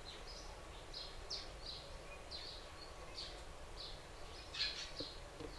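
Faint small-bird chirps, short high notes repeating irregularly about twice a second, with a louder burst of chirping near the end, over a low steady hum.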